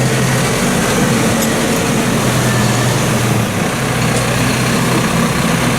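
Tractor engines running steadily at a low, even note.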